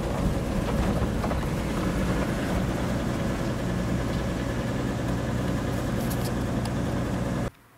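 Vehicle engine running with a steady low hum. It cuts off suddenly near the end.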